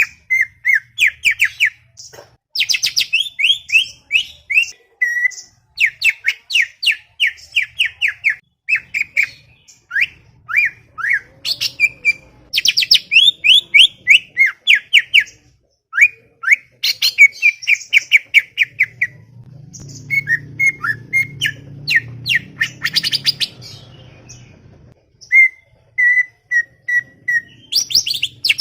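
A cucak ijo (greater green leafbird) singing a rapid, chattering song. It runs quick series of short sweeping notes, with brief pauses between the phrases.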